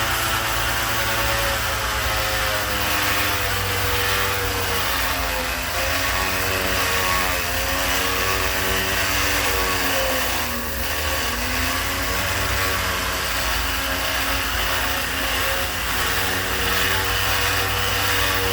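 Bosch variable-speed oscillating sander running against a white oak handle, its motor pitch wavering with the pressure and dipping briefly about ten seconds in before coming back up.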